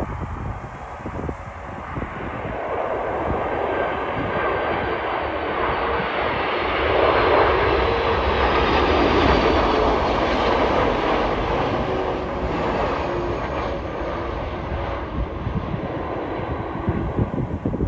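Airbus A330-323 airliner with Pratt & Whitney PW4000 turbofans passing close by as it comes in to land. The engine roar swells to a peak about a third of the way in and then fades slowly, with faint whines falling in pitch as it goes past. Gusty wind buffets the microphone throughout.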